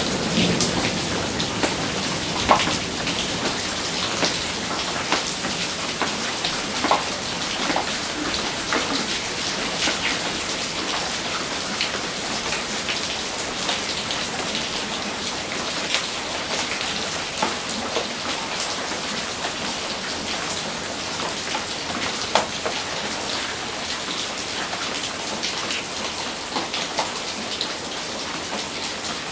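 Heavy rain falling steadily, with many individual drops splatting close by. The last of a thunder rumble dies away in the first moment.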